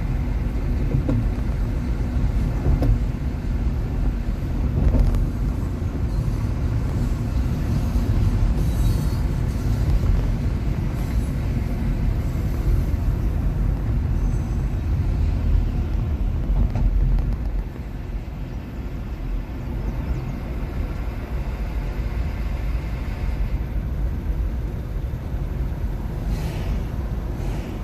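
Road and tyre rumble inside the cabin of a moving 2021 Nissan Leaf electric car, with no engine note. It is a steady low rumble that drops a little in level about two-thirds of the way in.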